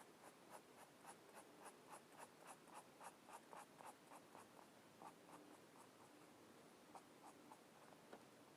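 Faint, quick back-and-forth colouring strokes on paper, about three or four a second for the first few seconds, then slower, scattered strokes.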